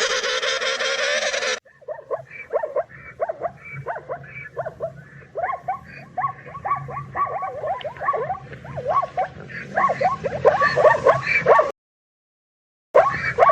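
Rapid, overlapping high yips from several animals, a few a second, each call sliding downward in pitch. They break off near the end for about a second, then resume. Before them, a brief loud, dense sound of another kind stops suddenly under two seconds in.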